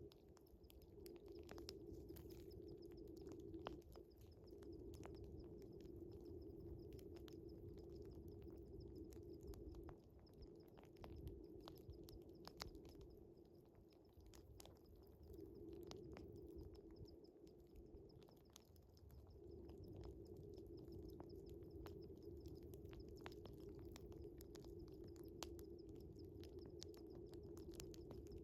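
Wood fire crackling with frequent small sharp pops, over a steady high chirring of night crickets. A low steady hum runs underneath and drops out a few times.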